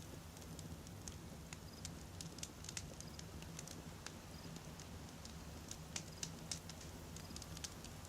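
Wood campfire crackling: irregular sharp pops and snaps of burning logs, some in quick clusters, over a steady low rumble of the fire.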